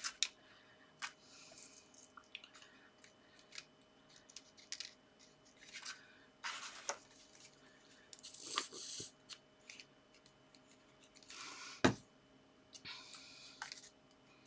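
Paper and card being handled on a craft desk: soft rustles and small taps in separate bursts, with one sharper knock about twelve seconds in.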